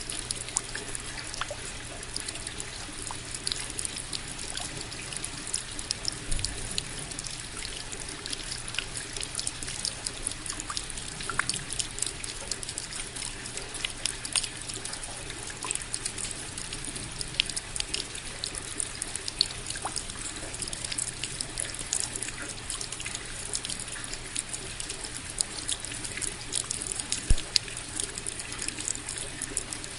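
Steady rain: a continuous hiss of falling water, with many separate drops landing as short ticks all through.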